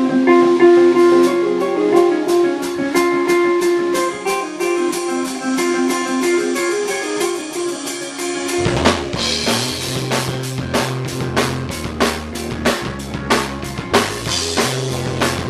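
Rock band playing: guitar over a steady drum beat. About eight and a half seconds in, a bass line and heavier drums with kick and snare come in and the music fills out.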